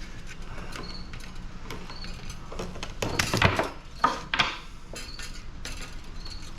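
Scattered clinks and knocks of metal parts being handled while an air conditioner is taken apart for scrap, with a few louder knocks a little past halfway.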